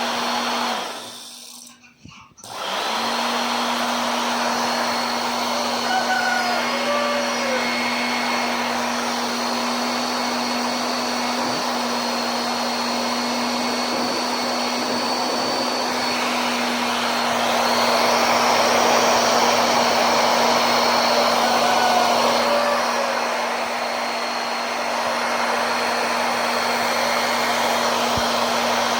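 Electric fan motor of a homemade model jet engine running with a steady airy whine and hum. It cuts out briefly about a second in, then picks up again, and runs a little louder for a few seconds later on.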